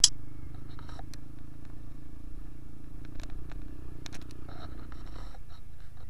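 Honda trail motorcycle's engine running steadily at low speed on a rough dirt road, with scattered light knocks and rattles from the bike over the bumps. The engine note drops slightly near the end.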